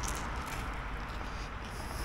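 Close-up chewing of a mouthful of bread topped with raw minced meat, with a small click right at the start, over a steady background hiss.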